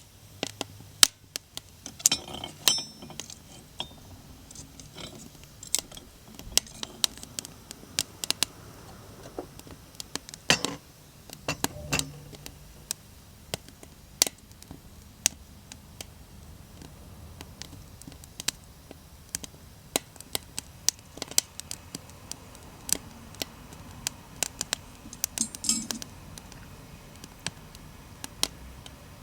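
Wood burning in a small homemade wood stove, crackling with sharp snaps and pops at irregular intervals over a low steady background, with denser flurries of snaps about two seconds in and near the end.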